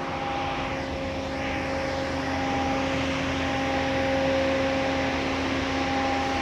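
Automatic car wash running: water spray hissing against the car over a steady motor hum, the spray swelling and fading as it passes about a second in.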